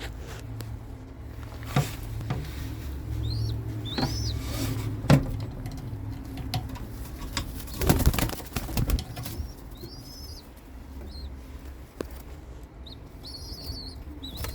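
Young racing pigeons in a loft: wings flapping and clattering a few times, with a cluster of flaps about eight seconds in, and short high chirps over a low steady rumble.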